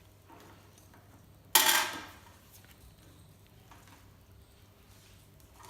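A single sharp metallic clatter, like a small metal hand tool put down on a hard surface, about a second and a half in.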